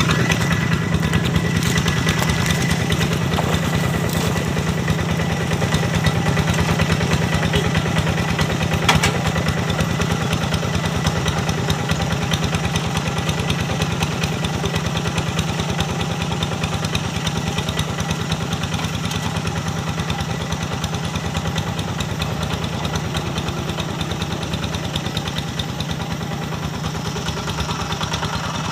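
Single-cylinder Kubota diesel of a Quick G1000 Boxer two-wheel hand tractor running steadily while ploughing, with one brief clank about nine seconds in.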